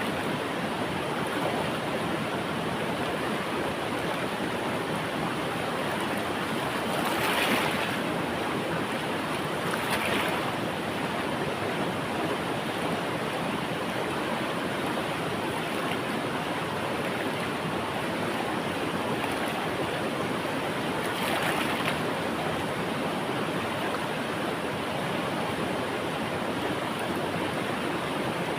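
River water flowing in a steady rush, with three brief louder surges, two close together before the middle and one about three quarters through.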